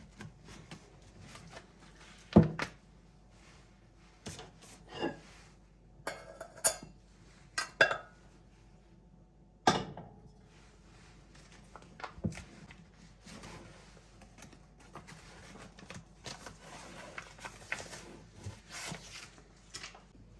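Dishes and kitchen utensils being handled: a string of irregular knocks and clinks, the two loudest about two and a half seconds and ten seconds in.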